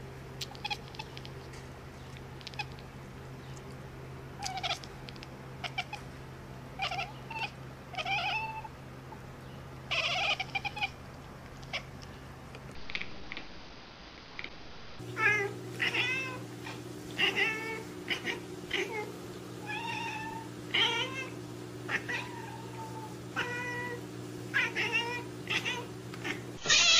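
Cats meowing, one meow after another, over a steady low hum. After a short quieter break about halfway through, the meows come faster and louder.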